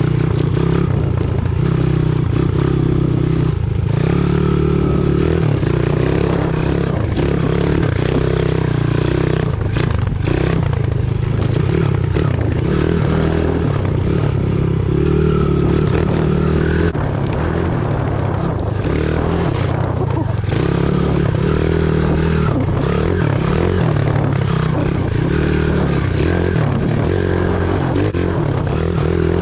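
Pit bike engine running under riding load, revving up and down with the throttle, with occasional knocks and rattles from the bike.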